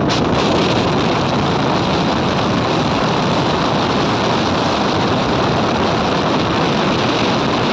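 Steady wind rushing over the microphone on a moving motorcycle, mixed with road noise.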